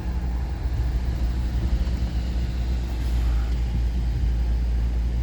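Car engine and road rumble heard from inside the cabin, a steady low drone while the car crawls along at walking pace.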